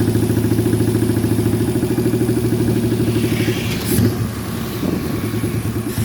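A custom motorcycle's 1000cc car engine running at a steady idle with an even firing beat. About four seconds in there is a brief clack, and the engine note drops a little after it.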